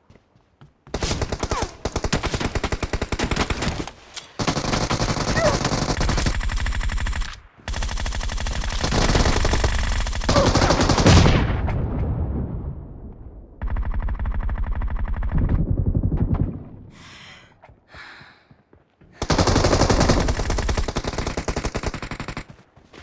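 Video-game automatic gunfire: five long bursts of rapid fire with short pauses between them, the middle burst tailing off gradually.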